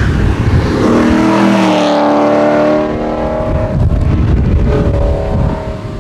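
Rally car engine accelerating hard, its note rising and then holding, with a fainter engine note again near the end. Strong wind buffets the microphone throughout.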